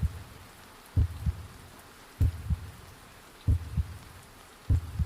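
A slow heartbeat sound effect, a pair of low thumps about every second and a quarter, five times, over a steady soft hiss of rain.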